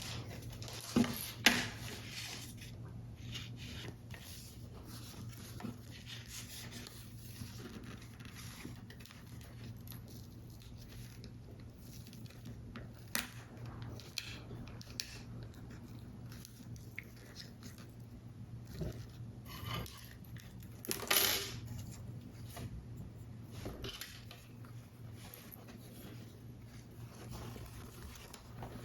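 Paper-model crafting sounds: scattered small taps and clicks of tools and card pieces handled on a work surface, with two sharper clicks about a second in and a brief paper rustle about two-thirds of the way through, over a low steady hum.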